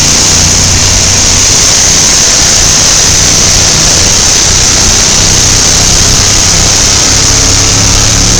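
Engine of a truck-and-tractor-pull vehicle running very loud and steady, with a heavy low hum under a dense hiss.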